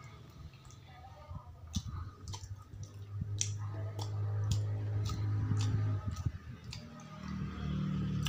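Wet mouth clicks and smacks of a person chewing food with his mouth closed, about two a second, over a low steady hum.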